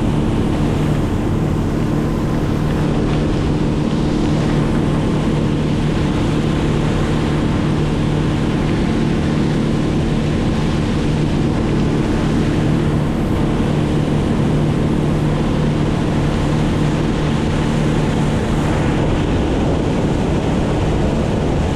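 An engine running at a steady, constant speed, a continuous drone, with wind buffeting the microphone.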